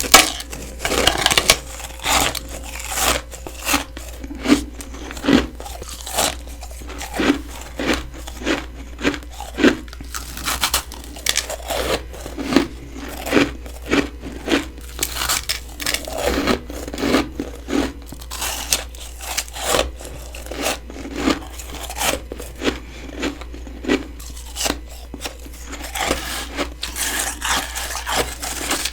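Close-up bites into hard, packed freezer frost, each one a sharp crunch, repeating a little under once a second.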